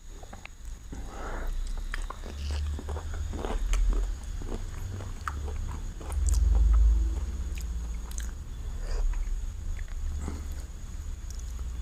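Close-miked chewing and biting of chicken biryani: a run of short wet mouth clicks and crunches over a low thudding, loudest about six seconds in.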